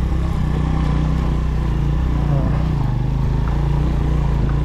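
Motorcycle engine running at a steady speed while riding, a constant low drone.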